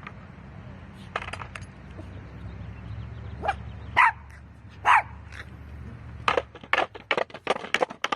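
Dog barking: a few single barks about a second apart, then a quick run of short barks near the end.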